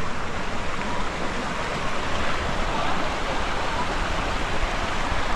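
Desert canyon creek rushing over rocks in a steady flow.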